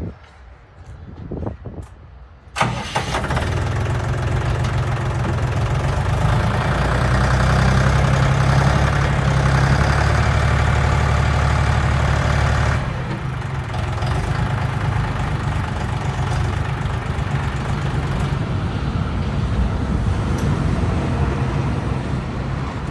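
Eastwind ZB28 compact tractor's diesel engine starting suddenly about two and a half seconds in, then running. It runs harder from about a quarter of the way in to just past halfway while the hydraulics lift the front-end loader, then settles to a steady idle.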